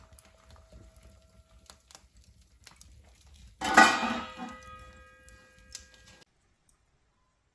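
Metal cookware clattering once, loudly, about halfway in, with a ringing that fades over the next two seconds, after a few light clinks.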